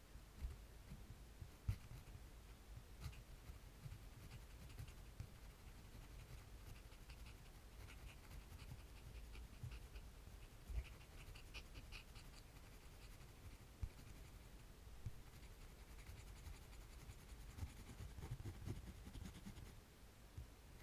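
Faint scratching strokes of a drawing tool on paper, coming in quick runs of fine ticks with a few soft knocks.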